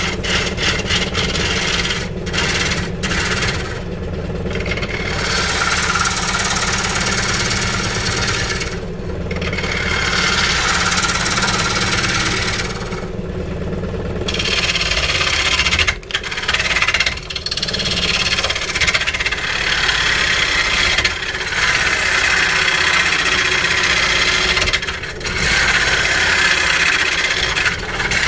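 A motor-driven woodworking machine runs with a steady hum while a tool cuts and rasps into willow wood in bursts of a few seconds, broken by short pauses.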